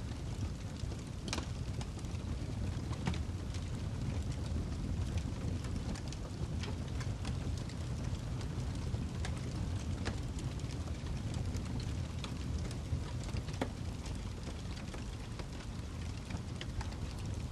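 Wood fire burning in a fireplace: a steady low rumble with frequent, irregular sharp crackles and pops from the burning log.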